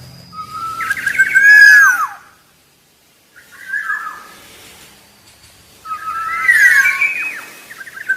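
Black-naped oriole singing: three phrases of fluty, gliding whistles, the first and last about two seconds long, the middle one shorter, each ending in a loud down-slurred note.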